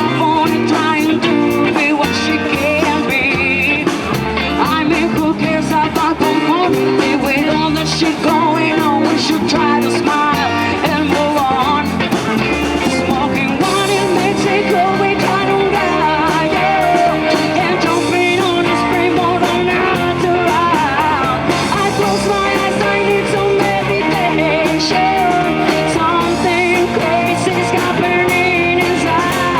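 Live band playing an original reggae-style song on electric guitar, bass and drums, with a wavering melodic lead line over a steady groove.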